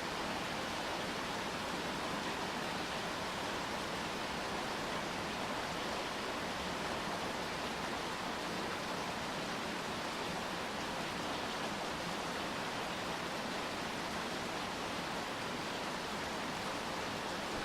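Steady rain falling, an even hiss without distinct drops or changes.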